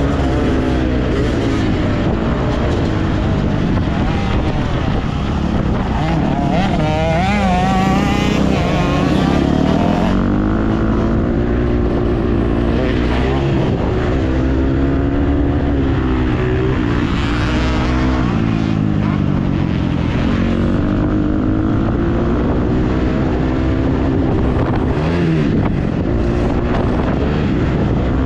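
Motocross dirt bike engine running hard as it is ridden, its pitch climbing and dropping again and again with throttle and gear changes over a constant low rumble.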